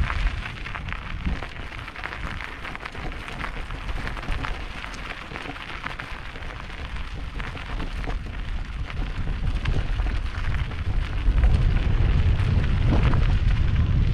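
Mountain bike tyres crunching and crackling over a loose, rocky dirt trail, with wind rumbling on the microphone. The rumble grows louder near the end.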